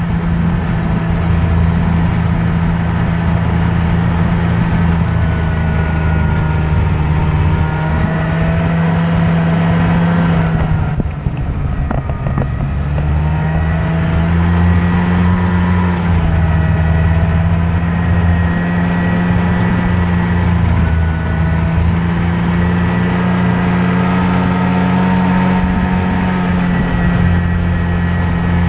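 A motor vehicle's engine running steadily. It eases off briefly about eleven seconds in, then picks up again.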